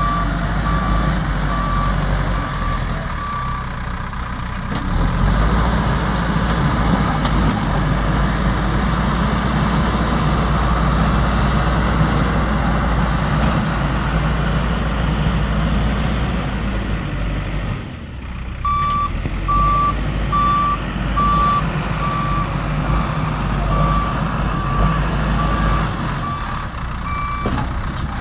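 JCB backhoe loader's diesel engine running steadily under work, with its reversing alarm beeping at evenly spaced pulses for the first few seconds and again from about two-thirds of the way through.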